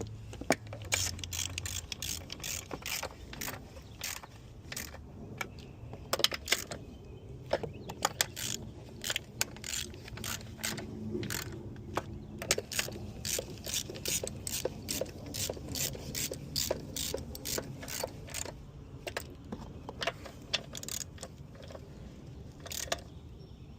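Hand ratchet clicking in short irregular runs as bolts are run down and tightened.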